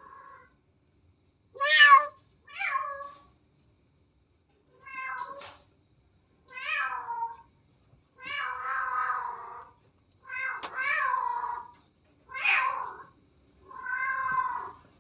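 A domestic cat, pregnant and near labour, meowing over and over: about eight or nine drawn-out meows, a second or two apart, some longer and wavering. Restless, repeated meowing like this is a common sign that birth is close.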